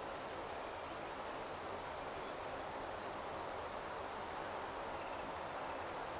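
Crickets trilling steadily at a high pitch, in long trills that break off briefly every second or two, over a steady evening paddy-field din.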